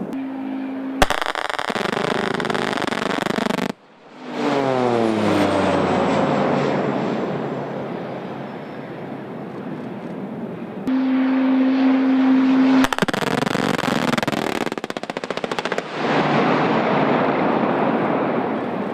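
Two bursts of very rapid automatic gunfire, the first about a second in and the second about two thirds of the way through. Between them an aircraft passes with its pitch falling.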